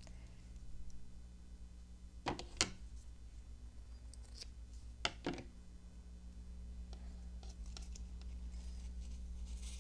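Scissors snipping coffee-dyed cheesecloth: two quick pairs of snips a few seconds apart. A low, steady electrical hum runs underneath.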